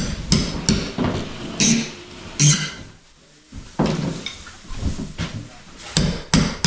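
Irregular knocks and clatter, with a short lull about three seconds in.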